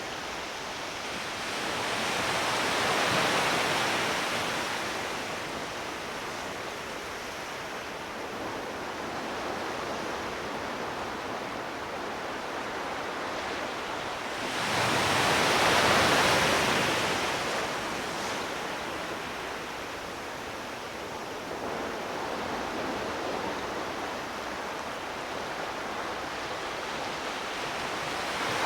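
Sea waves surging and washing in, a steady rush of water that swells into louder surges about three seconds in and again around sixteen seconds.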